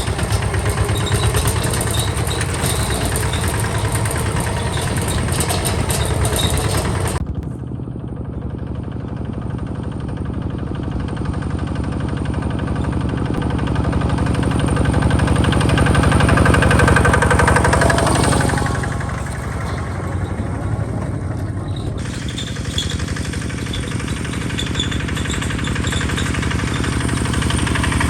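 Hinota HG Gold 155 DI diesel engine of a two-wheel hand tractor running steadily with a knocking beat. The sound turns abruptly duller about seven seconds in, grows louder for a few seconds in the middle, and turns abruptly clear again about twenty-two seconds in.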